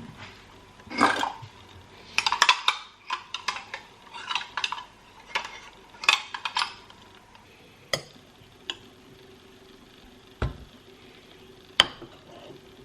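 A metal utensil stirring in a bowl, in several bursts of quick clinks over the first seven seconds. A few single taps and knocks follow.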